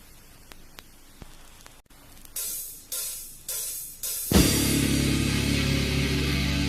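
Thrash/death metal track starting out of a near-quiet gap: a few faint clicks, then cymbal strikes about half a second apart counting in, and a little over four seconds in the full band crashes in with distorted guitars, bass and drums.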